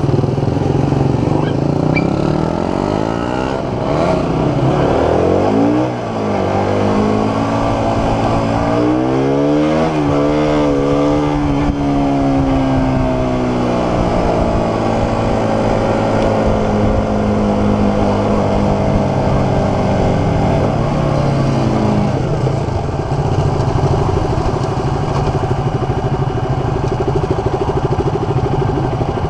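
Small sport motorcycle engine pulling away under acceleration, rising in pitch with a brief dip at a gear change about six seconds in, then running at a steady cruise; about three-quarters of the way through it drops back to a lower steady running as the bike slows and stops.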